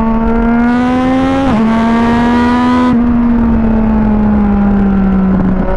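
Yamaha MT-09 SP's three-cylinder engine through an Akrapovic exhaust, pulling up through the revs. Its pitch drops sharply about one and a half seconds in as it shifts up, then climbs again. From about three seconds in the throttle eases off and the pitch falls steadily.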